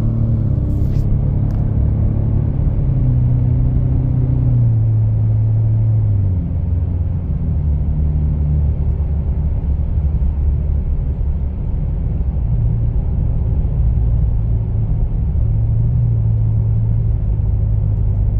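Cabin sound of a 2025 Ford Explorer's 2.3 EcoBoost four-cylinder with Jones Full Boar performance mufflers and the resonator deleted, driving on the road. A low exhaust hum drops in pitch in two steps about 5 and 6 seconds in, then settles into a steady low cruise tone.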